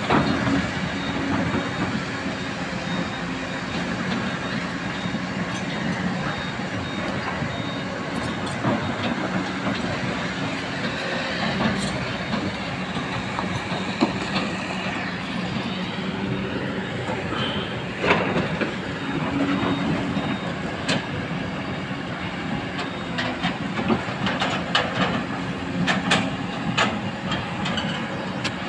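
Excavator's diesel engine running steadily, with repeated metallic clanks and knocks over it, thickest near the end.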